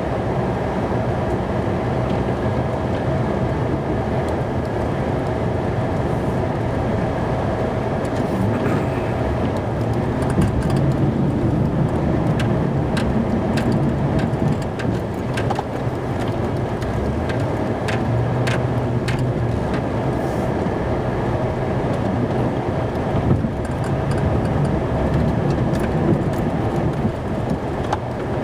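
Snow-plow truck's engine running steadily, heard from inside the cab, with scattered light clicks and knocks.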